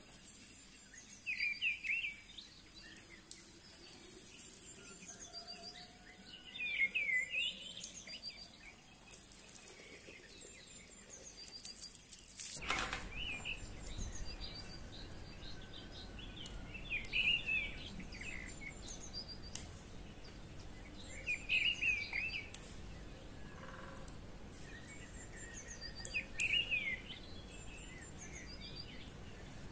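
Songbirds singing: a short chirping phrase repeated every four or five seconds, with fainter high tweets between. About twelve seconds in there is a single sharp click, after which a low, steady background noise carries on under the birds.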